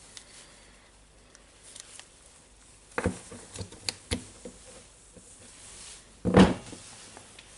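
Light knocks and clicks of parts and tools being handled on a workbench: a quick cluster about three seconds in, then one louder knock near the end.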